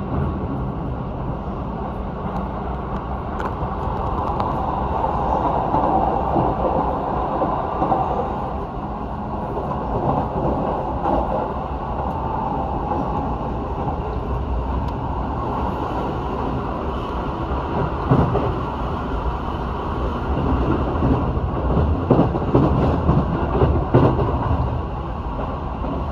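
Keihan electric train running on the line: a steady rumble of wheels on rail, with several sharper clacks in the last third as the wheels pass over rail joints.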